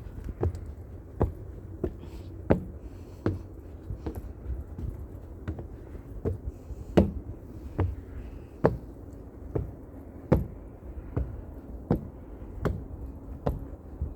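Footsteps of a person walking at a steady pace on a hard path, one sharp step about every three-quarters of a second.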